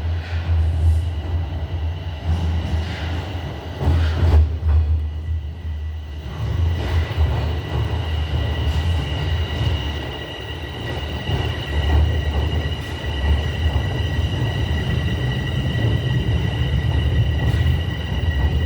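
TTC Line 4 Sheppard subway train: a steady deep rumble, joined about six seconds in by two steady high-pitched whines.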